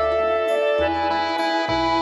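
An accordion plays a folk-style tune: sustained melody and chord notes over low bass notes that change about once a second.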